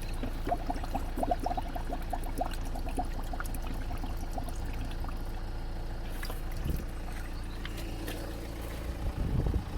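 Water running into a container to fill it, gurgling in short blips over the first few seconds and then running steadily, with a few knocks near the end.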